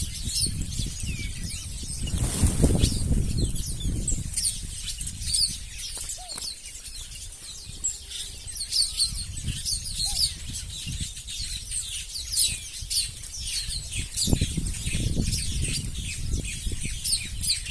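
A flock of small birds chirping busily at a feeding spot, with bursts of fluttering wingbeats, loudest about two to four seconds in and again around fourteen to sixteen seconds.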